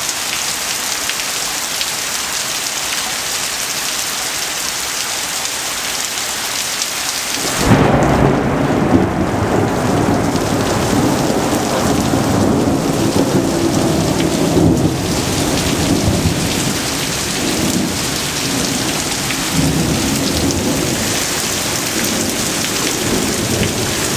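Heavy rain pouring down steadily. About seven seconds in, thunder breaks suddenly and rolls on in long, low rumbles that rise and fall for more than fifteen seconds under the rain.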